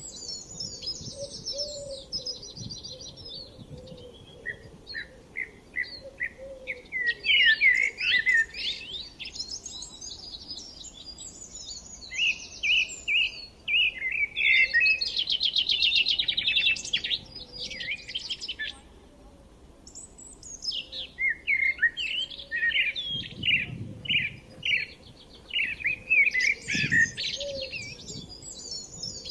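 Several songbirds chirping and singing in overlapping bursts, with a fast trill about halfway through and a short lull after it.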